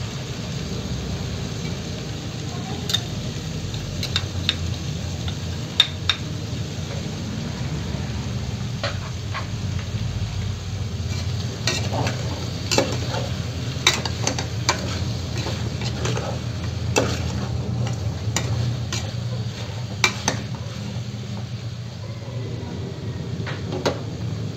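Chicken pieces sizzling in oil in an aluminium pot on a gas burner while a spoon stirs them, clinking and scraping against the pot now and then. The clinks come more often in the second half, over a steady low hum.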